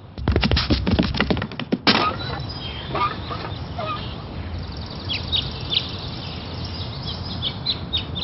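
A quick clatter of clicks and knocks for about two seconds. Then an outdoor background with birds chirping.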